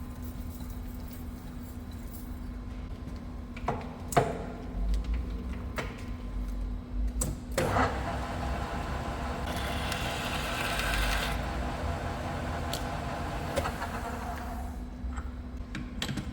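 Workshop machinery running with a steady hum, a few sharp metallic knocks, then a stretch of higher whirring from a machine cutting metal for several seconds that stops a little before the end.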